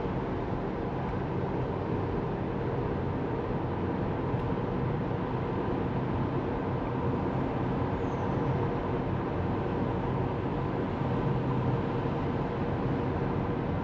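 Steady road noise of a Tesla Model 3 electric car driving along, mostly tyre and wind noise, with a faint steady hum underneath.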